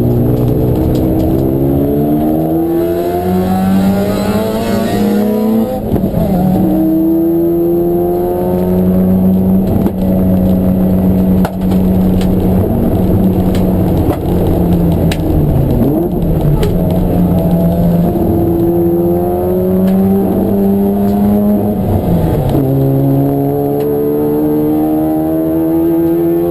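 Race car engine pulling hard: its note climbs, drops at a gear change about six seconds in, holds a high steady note for a long stretch, then climbs and drops at another shift near the end before rising again.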